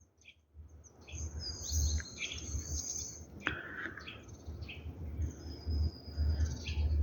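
Wild songbirds chirping and singing: many short high calls and warbles, starting about a second in, over a low rumble, with one sharp click midway.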